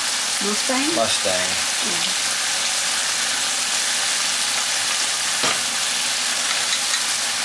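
Pork frying in a pan with a steady sizzle, and a single knock about five and a half seconds in.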